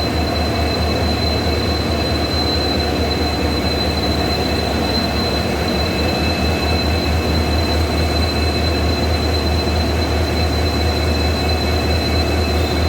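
EMD WDG4D diesel locomotive with its 16-cylinder two-stroke engine running steadily: a low engine drone under a steady high-pitched hum.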